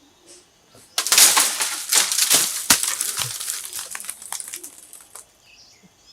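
A loud rustling crackle full of sharp clicks starts suddenly about a second in and dies away over about four seconds. Faint bird chirps can be heard around it.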